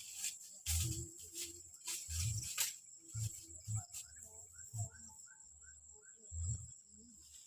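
Footsteps on the forest floor, irregular low thumps with a few sharp crackles of leaf litter and twigs. Behind them is a steady high insect drone and a run of short repeated chirps.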